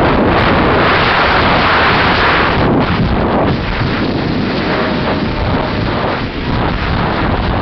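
Wind buffeting the microphone of a small, big-engined speedboat running at about 50 mph, with the engine and rushing water underneath. The noise is loud and steady throughout.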